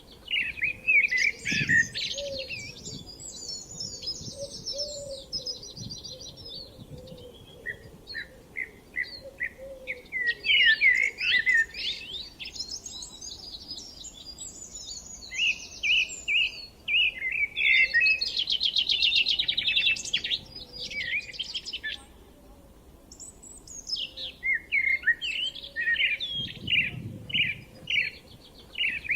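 Several songbirds singing, overlapping phrases of quick repeated chirps and fast high trills, with a brief lull a little past the middle.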